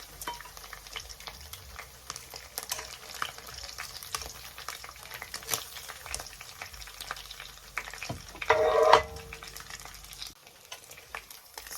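Chicken pieces frying in hot coconut oil in a pan: a steady sizzle scattered with small pops and crackles as the golden pieces are taken out. About eight and a half seconds in there is one brief, louder clatter.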